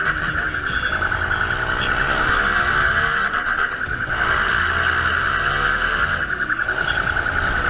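Vehicle engine and road noise during a high-speed chase, with a steady high-pitched tone over it.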